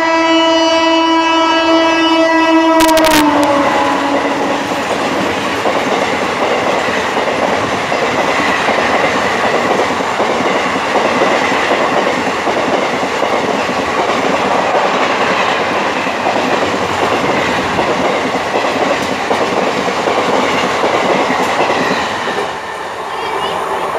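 Electric locomotive's air horn sounds one long blast, lasting about three seconds, and its pitch sags as it is released. The express coaches then rush past close by, their wheels clattering steadily on the rails, easing slightly near the end.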